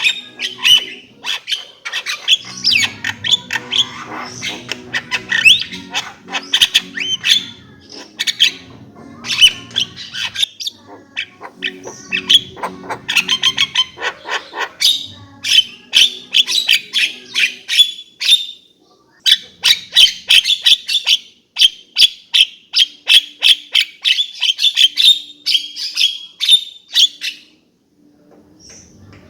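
Javan myna singing: a long run of rapid chattering, whistled and squawking notes mixed with dry clicks, breaking off briefly twice. Near the end it switches to fast, regular clicking chatter. A low steady drone sits under the song for the first half.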